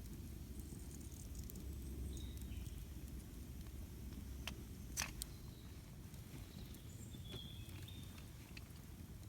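Campfire burning with a low rumble and scattered crackles and pops, the sharpest pop about halfway through. Faint bird chirps come in a couple of times.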